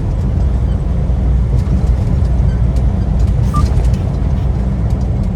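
Semi-truck cab interior while driving on the highway: a steady low drone of engine and road noise.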